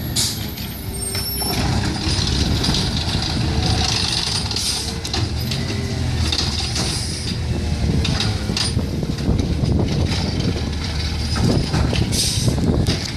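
Garbage truck's diesel engine running steadily, with several short air-brake hisses through it.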